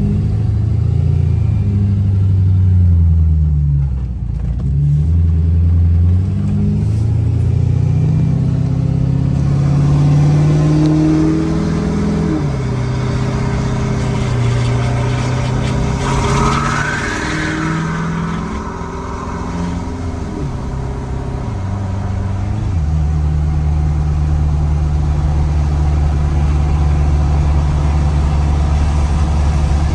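Turbo-diesel pickup engine pulling through the gears, its pitch climbing and dropping several times, with a short whoosh a little past halfway. For the last third it settles into a steady drone.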